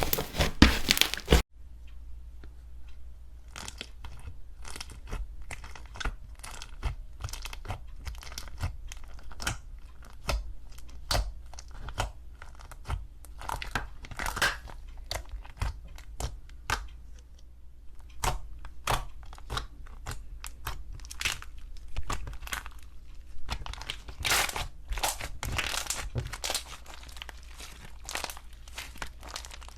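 Slime being handled, with crackling, crunching pops and tearing sounds as it is pressed and pulled. A louder bout of crunching cuts off abruptly about a second and a half in, followed by quieter, irregular crackling with denser bursts later on.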